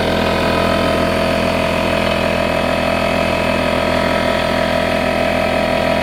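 Craftsman 6-gallon air compressor running steadily, pumping up its tank toward its 150 psi cut-out.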